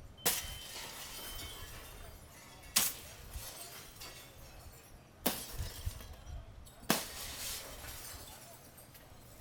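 Window glass breaking at a house fire: four separate sharp crashes of shattering glass a couple of seconds apart, each trailing off in tinkling, over a low rumble of wind.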